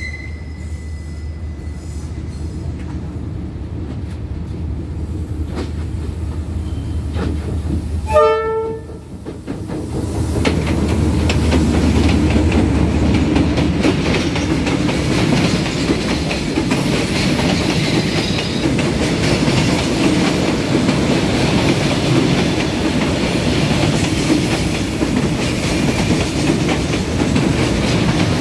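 Diesel freight train: the locomotive's low engine drone as it approaches, a brief horn blast about eight seconds in, then a long string of boxcars rolling past close by, with a steady rumble and the clickety-clack of wheels over the rail joints.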